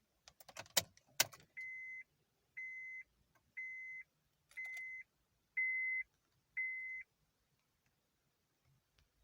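Keys jangle briefly, then a Honda Accord's electronic warning chime beeps six times, about once a second, at one steady pitch.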